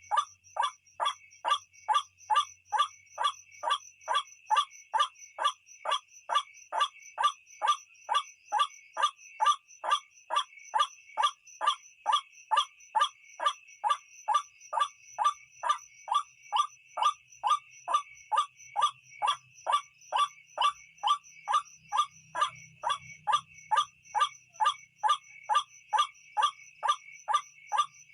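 White-breasted waterhen (ruak-ruak) lure call: short calls repeating very evenly, about two and a half a second, over a steady high whine.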